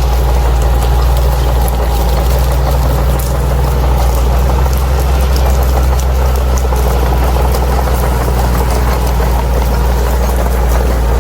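Crawler bulldozer's diesel engine running steadily, with a strong low drone and light metallic clatter from the machine.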